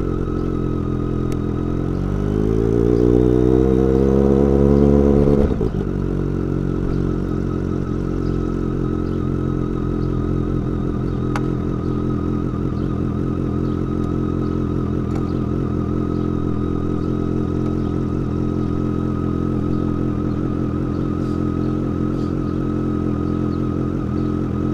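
BMW K1200R's inline-four engine idling through a Dekevic 8-inch stainless shorty muffler. It is blipped once about two seconds in: the pitch climbs, holds for a couple of seconds, then drops sharply back to a steady idle.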